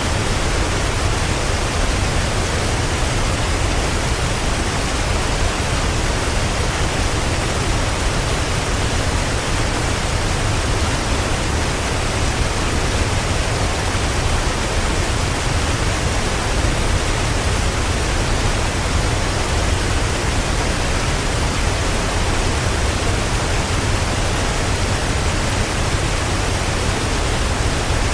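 Mountain stream rushing and cascading over mossy rocks: a loud, steady, unbroken rush of water.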